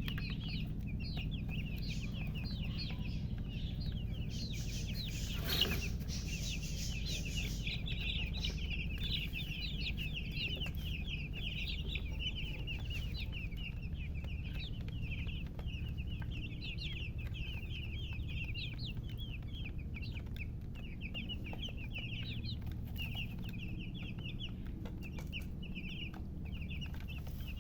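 A crowd of newly hatched chicks peeping continuously, many short, high, falling chirps overlapping one another, over a steady low hum. A brief knock about five and a half seconds in.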